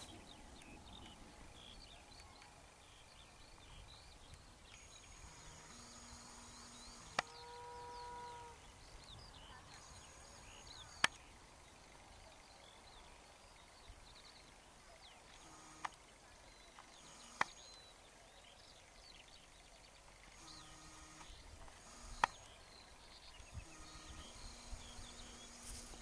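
Faint birdsong, many small scattered chirps, over quiet open-air background noise. A few sharp clicks fall through it, and a short steady tone sounds about seven seconds in.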